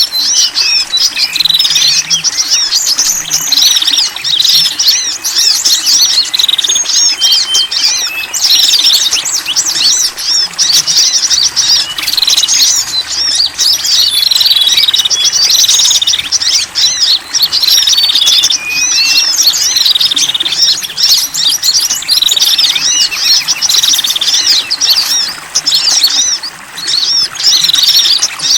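A dense, continuous chorus of many small songbirds chirping and trilling, with calls overlapping and repeating, layered into a bird-lure recording.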